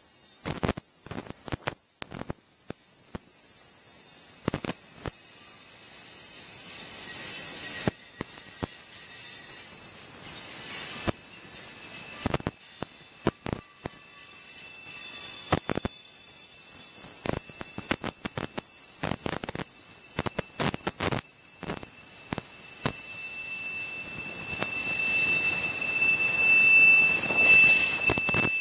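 Freight train of covered hopper cars rolling past: steel wheels clacking irregularly over the rail joints, with a steady high-pitched wheel squeal that grows loudest near the end.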